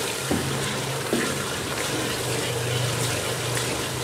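Thick spice masala sizzling and bubbling in oil in an aluminium pot as a wooden spoon stirs it, with a few light knocks of the spoon against the pot. A steady low hum runs underneath.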